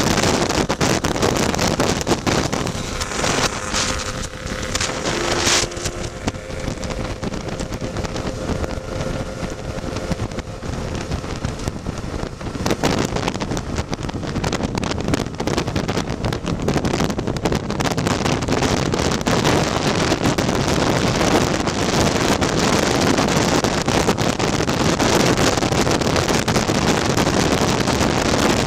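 Wind buffeting the microphone over a tuned two-stroke Lambretta scooter engine running at road speed. The noise drops back for several seconds, then builds up louder again about twelve seconds in.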